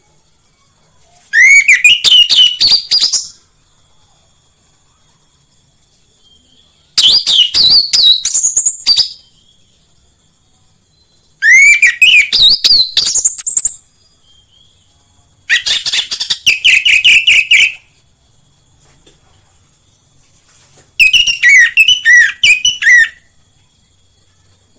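Orange-headed thrush singing: five loud song phrases of rapid notes sliding up and down in pitch, each about two seconds long, separated by pauses of a few seconds.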